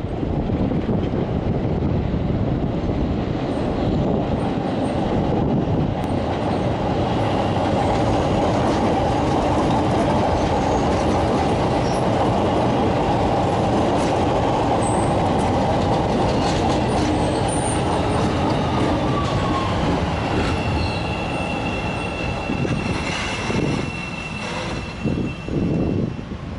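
CTA Bombardier 5000 Series rapid-transit train running past on steel rails and slowing into a station, a loud steady rumble of wheels and cars. About two-thirds of the way through a whine falls in pitch, and near the end a steady high tone sounds with a few sharp clicks as the train slows.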